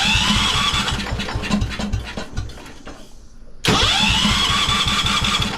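Electric starter cranking the 1973 Wheel Horse's 10 hp Kohler single-cylinder engine twice. Each attempt starts with a rising whine and rapid chugging, and the engine does not catch, a sign of the tank running dry. The first attempt fades out about three seconds in, and the second starts half a second later.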